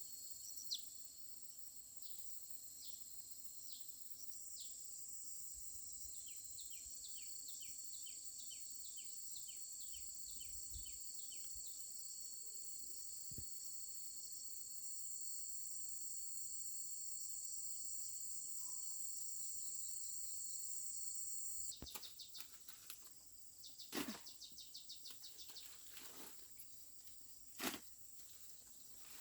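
Insects droning steadily at a high pitch, with repeated short falling chirps over it. About three-quarters of the way through the drone cuts off, and scattered rustling and clicks follow, with two loud sharp cracks.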